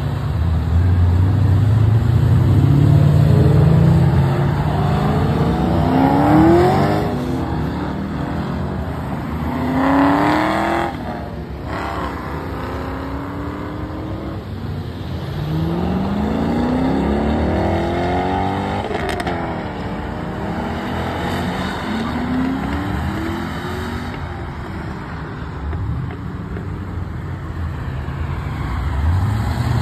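Cars leaving one after another: classic American muscle cars and a Corvette accelerating away, each engine's pitch rising several times as it pulls out and speeds off.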